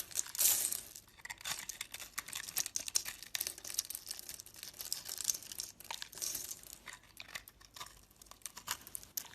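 A knife cutting into a bar of soap: a dense run of crisp scraping and crackling strokes, many short sharp cuts in quick succession, loudest about half a second in.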